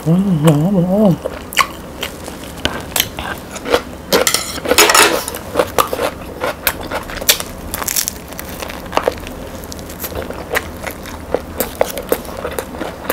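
Biting into and chewing a crusty baguette sandwich close to the microphone: crackling crunches of bread crust, a dense crunchy bite about four seconds in, and many small wet mouth clicks. A short hummed 'mmm' comes in the first second.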